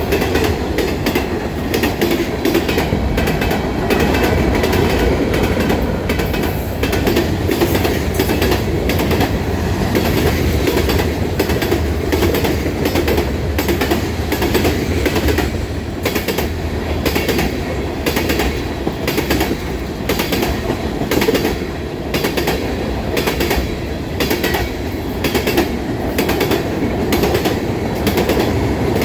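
Train rolling past at close range: a steady rumble of cars on the rails, with a quick run of wheel clicks over the rail joints.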